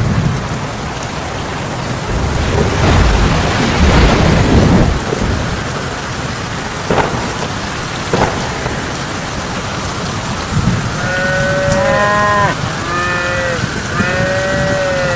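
Rain-like hiss with a low rumble of thunder swelling a few seconds in, then several bleats, each rising and falling in pitch, over the last few seconds.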